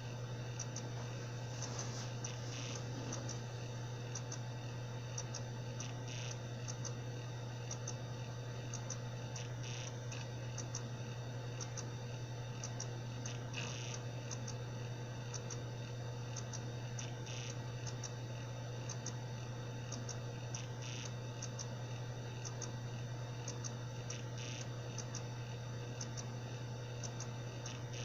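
Seagate Barracuda 7200.7 80 GB hard drive (ST380819AS) spinning with a steady hum and a steady tone, with short, irregular clicks. This is the bad sound of a faulty drive.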